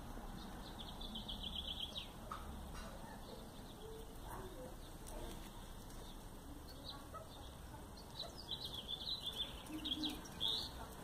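Bird chirps in short high clusters, about a second in and again near the end, over a steady low hum.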